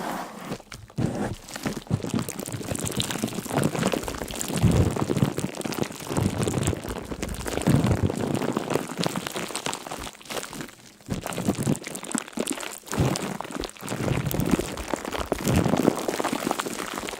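Dense crackling, pattering noise full of small clicks, now stronger, now weaker.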